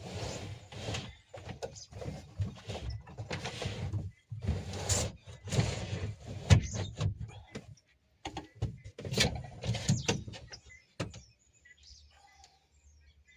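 A small 12-volt fridge being pushed and shifted in its tight built-in compartment: repeated scraping and rubbing with a few knocks, going quiet for the last couple of seconds.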